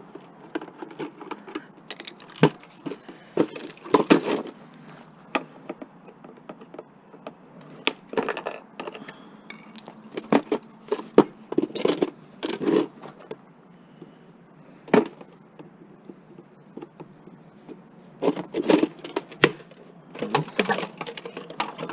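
A blender being taken apart by hand: irregular clicks, knocks and clattering of plastic and metal parts, some in quick clusters, as it is pried and unscrewed to get at its motor for the copper.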